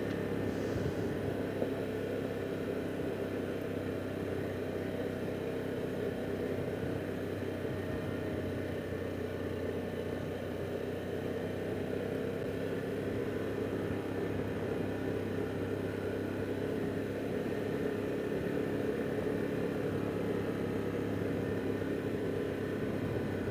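Harley-Davidson Pan America's Revolution Max V-twin engine running steadily at cruising speed under the rider, its note holding even with a slight drift in pitch midway.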